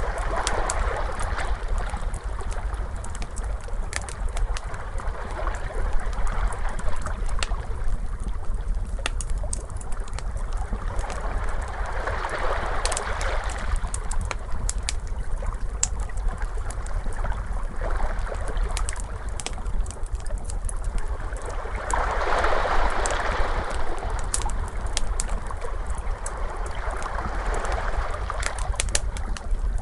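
Ocean waves washing in, swelling three times, over a wood fire crackling with frequent sharp pops, and a steady low rumble underneath.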